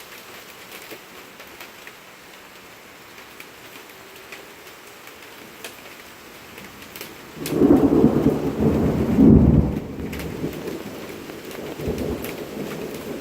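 Steady rain with scattered drop ticks, then about seven and a half seconds in a loud thunderclap breaks out and rumbles for a couple of seconds before easing into lower, continuing rumbles over the rain.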